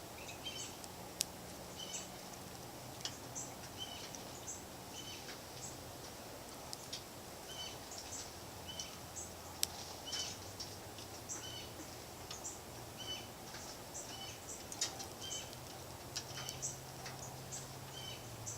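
Small songbirds at a feeder giving many short, high chirps, over a steady low background hum. Two sharp clicks stand out, about a second in and near the middle.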